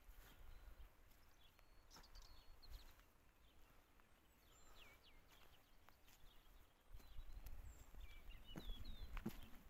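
Faint, scattered chirps of small birds against a quiet rural background, with wind rumbling on the microphone from about two-thirds of the way in.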